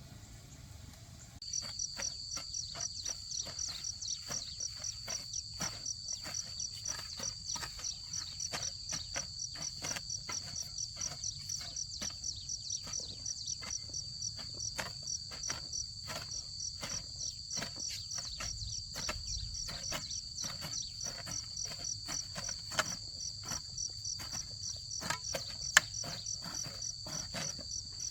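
Insects chirping in a steady, rapidly pulsing high trill that starts about a second and a half in, with regular clicks about two or three a second throughout.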